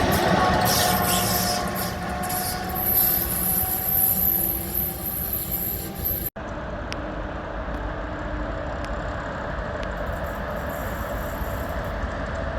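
A train running through a station with several steady whining tones over a rumble. The sound breaks off abruptly about six seconds in, then carries on as a steadier, quieter rumble with a few faint clicks.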